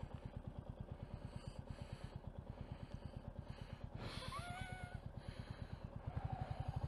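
Motorcycle engine ticking over with an even, rapid beat as the bike rolls slowly, heard from the rider's seat. A brief rising squeal comes about four seconds in, and the engine grows louder near the end.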